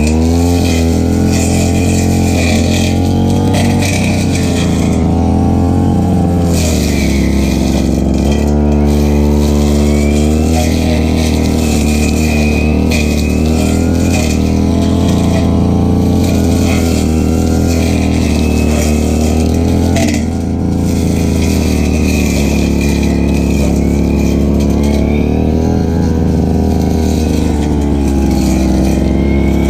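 Stihl FR3001 backpack brush cutter's two-stroke engine running loudly at high revs, its pitch dropping and rising again several times as the throttle is eased and opened while cutting grass.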